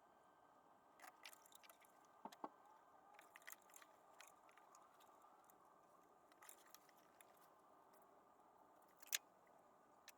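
Near silence with scattered faint clicks and light taps, and one sharper click about nine seconds in.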